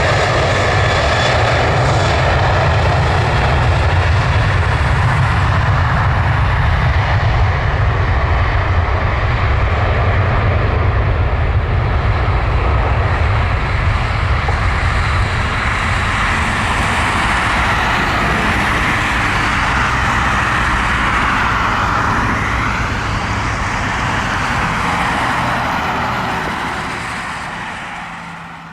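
Jet airliner engines running loud and steady with a deep rumble, fading out near the end.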